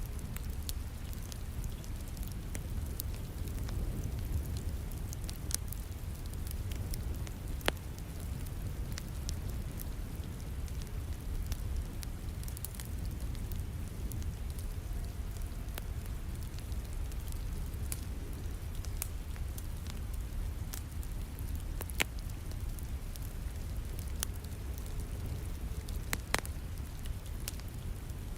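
Wood fire crackling, with scattered sharp pops over a steady hiss of falling rain; a few pops stand out louder, about eight seconds in and twice near the end.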